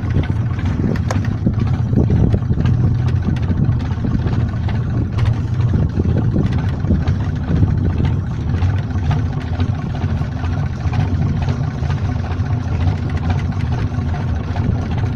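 Fishing boat's engine idling steadily at sea, a continuous low hum, with scattered small knocks on board.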